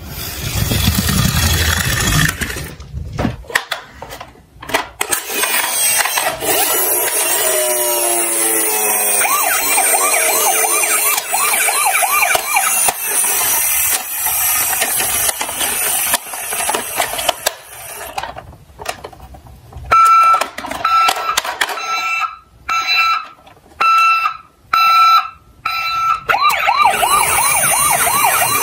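Toy emergency vehicles' electronic siren sounds: wailing, warbling sirens with scattered clicks and knocks. Near the end a high beeping tone sounds in short on-off bursts.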